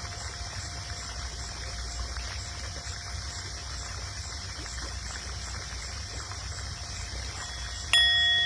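Tibetan singing bowl ringing as a faint, steady tone over a low rumble. It is struck sharply near the end, and the strike rings out with several clear tones that fade over about a second.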